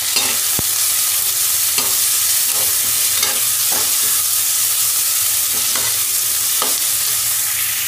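Onions, green chillies and a ground spice paste sizzling steadily in hot oil in a kadhai while a flat steel spatula stirs and scrapes them around the pan, with a scrape about once a second and a sharp click of the spatula against the pan just after the start. The masala is being bhuna'd, fried down in the oil.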